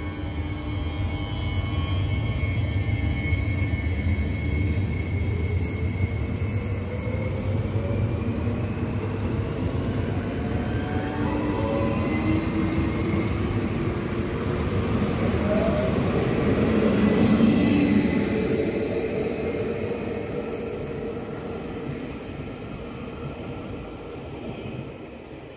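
Double-deck Regio 2N electric multiple unit rolling past: wheel rumble with the whine of the traction motors rising in pitch, loudest about two-thirds of the way through, then fading as the last cars go by.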